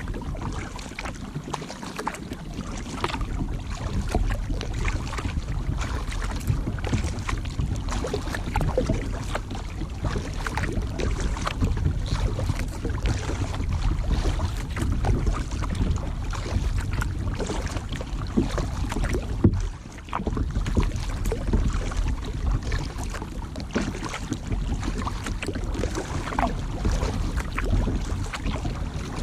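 Wind rumbling on the microphone over water splashing and dripping around a kayak as it is paddled. The sound dips briefly about twenty seconds in.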